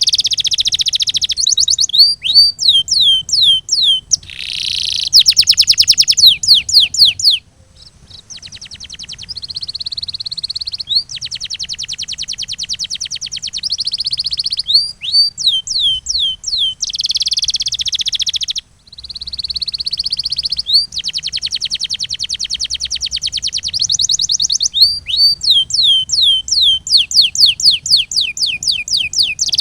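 Domestic canary singing: a long run of song phrases made of fast trills and repeated downward-sweeping notes, pausing briefly about a quarter of the way in and again near two thirds of the way through.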